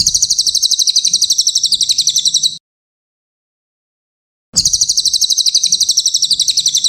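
Cililin (Javan pygmy tit) singing a fast, high, rattling trill of about ten notes a second, played twice with a short silent gap between, each phrase starting and stopping abruptly as a looped training recording.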